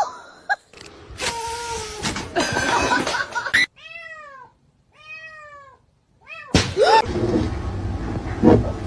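Domestic cat meowing: two clear meows around the middle, each rising and then falling in pitch, and a shorter call shortly after.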